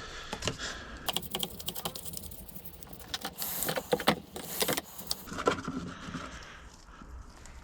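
Rust being rubbed off a hydraulic jack's metal part by hand: scratchy rubbing with many small clicks and knocks of metal.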